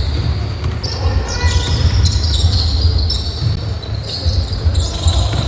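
Basketball game play on an indoor court: a ball bouncing on the floor, with short high-pitched sneaker squeaks throughout.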